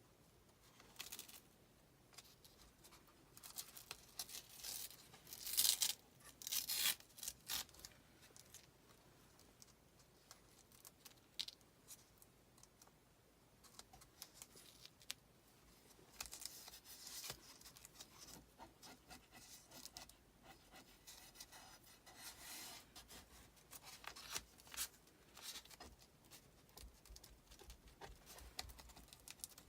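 Irregular scraping and rubbing strokes of hand craft work on a flat surface, in short bursts, busiest in the first third.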